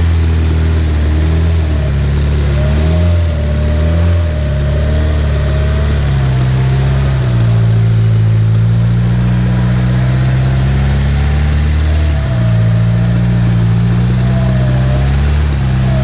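Car engine running loud and steady, its revs stepping up and down every few seconds as the driver works the throttle, with a faint wavering whine above it.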